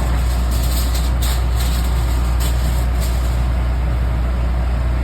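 A steady, loud low machine hum, like an engine or generator idling, with a few brief crackles in the first three seconds.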